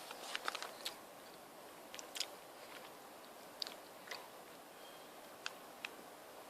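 Faint chewing of a Hi-Chew chewy candy: a handful of short, sharp mouth clicks scattered across a quiet background.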